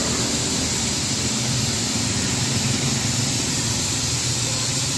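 A car engine idling steadily, with an even low hum under a steady hiss.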